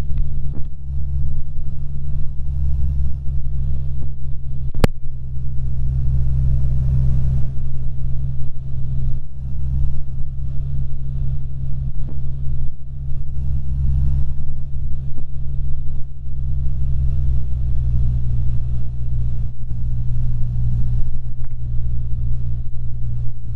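Cessna 150's four-cylinder Continental O-200 engine and propeller droning steadily in flight, heard inside the cabin. A single sharp click sounds about five seconds in.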